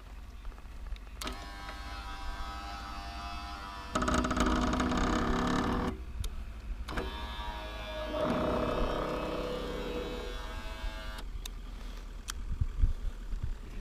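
Electric windscreen motor on a 2007 Yamaha FJR1300 whirring as the screen is moved, in two runs of about four seconds each, one about a second in and one about seven seconds in. Each run gets louder partway through. A few light clicks follow near the end.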